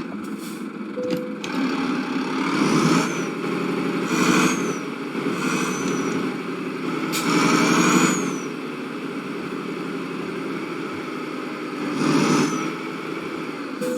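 Motor vehicle engine noise, with about five louder swells that come and go.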